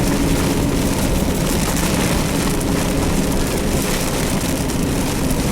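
Steady rumble and hiss inside a moving car in a storm: engine and road noise with rain on the body and windshield.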